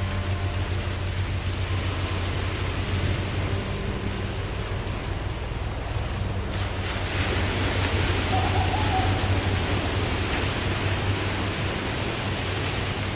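Waterfall rushing: a steady roar of falling water with a deep low rumble, its hiss growing brighter and a little louder about seven seconds in.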